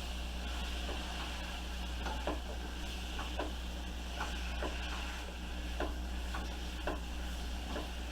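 Chicken, onion and flour sizzling in oil in a pan, stirred with short scraping strokes every second or so: the flour is cooking out to make a roux for the gravy.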